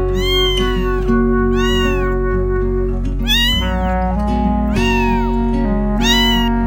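A cat meowing over and over, about six meows spaced roughly a second apart, each rising then falling in pitch, over background music with steady held notes.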